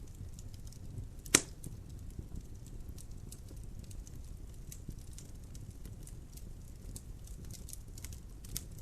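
Wood logs burning in a fireplace: scattered small crackles over the low rumble of the fire, with one loud sharp pop about a second and a half in.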